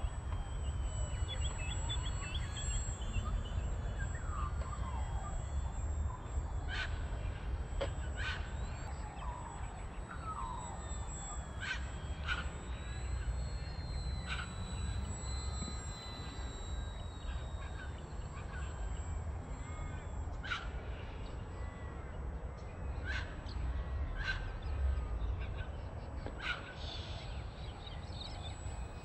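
Birds calling: short sharp calls and chirps at irregular intervals, over a steady low rumble.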